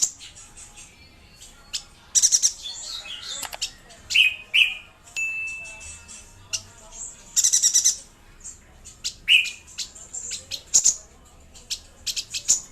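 Chestnut-crested yuhina calling vigorously: quick high chattering trills in short bursts, mixed with scattered sharp chirps and one short held whistle.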